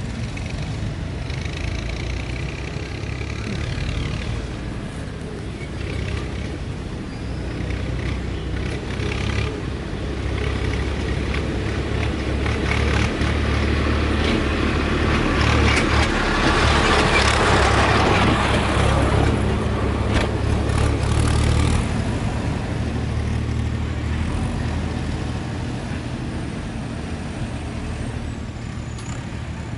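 JCB backhoe loader's diesel engine running steadily, getting louder and harsher for about ten seconds in the middle as it works, then easing back down.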